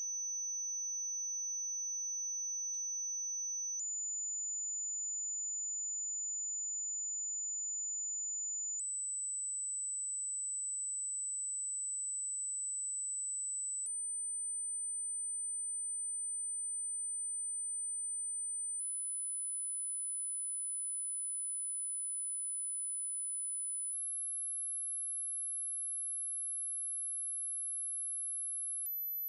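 High-frequency hearing test: a single pure sine tone held steady, stepping up in pitch about every five seconds into very high pitches. It is meant to find the highest pitch a listener can still hear.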